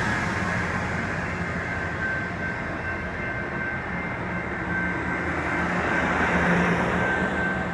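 Passenger train running through a station: a steady mix of engine drone and wheel noise, with a faint high whine over it, swelling a little near the end.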